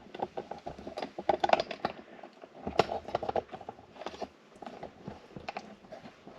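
Irregular light clicks, taps and rattles of metal door hardware being handled as an old storm-door closer is taken off.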